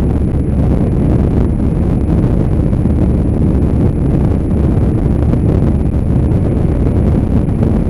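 Steady wind noise buffeting the microphone on a moving motorcycle, mixed with the bike's engine and road noise.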